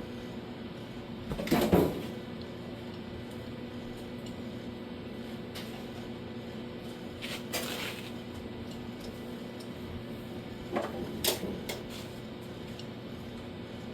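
A few separate clunks and clatters from sheet-metal panel work, over a steady hum. The loudest comes about two seconds in, another in the middle, and two close together near the end.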